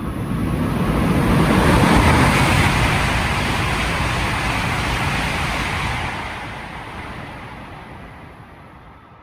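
E5 series Shinkansen train passing through the station at speed without stopping. The rushing noise builds to its loudest about two seconds in, holds, then fades away over the last few seconds.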